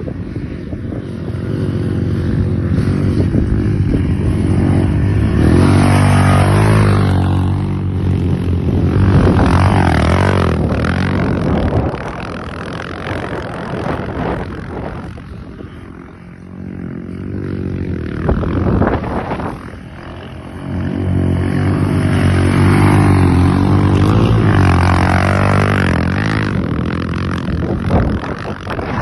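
250 cc motorcycle engines, a Motomel Skua 250 among them, accelerating hard: the pitch climbs through each gear and drops at the shifts. This happens in two loud runs, with a quieter stretch in the middle.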